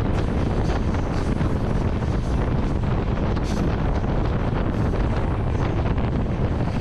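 Wind buffeting the microphone at an open train window, over the steady low rumble of the express train running at speed.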